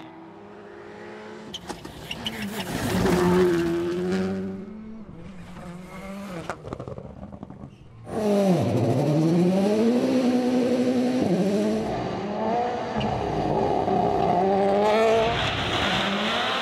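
Rally cars at speed on a gravel stage: engines revving up and dropping back through gear changes, one car rising in level and passing about three seconds in, then a sharp jump to a loud, sustained high-revving run about eight seconds in.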